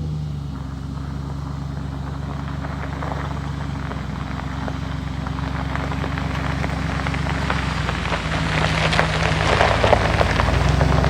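Pickup truck engine running steadily while driving, with a crackling noise that grows louder in the last few seconds.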